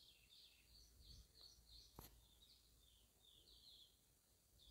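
Near silence, with faint birds chirping in the background and a single soft click about two seconds in.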